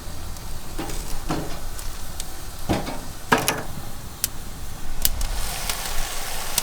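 Dry firewood logs knocking together as they are fed into a cooking fire: four or five dull knocks over the first few seconds, then scattered sharp crackles and a hiss of frying rising near the end.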